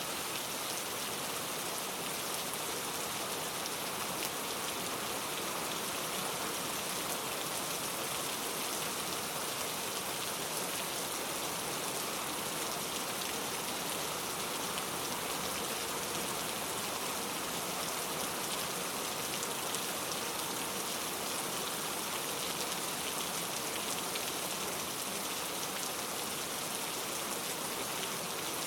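Steady heavy rain falling, an even hiss with a dense patter of drops.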